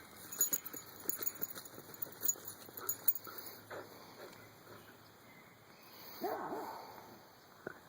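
Scattered light clicks and rustling, then about six seconds in a dog gives one short yelping bark, with a brief faint dog call near the end.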